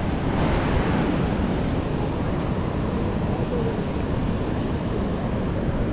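Steady rushing of a river running high and fast after rain, with wind buffeting the microphone.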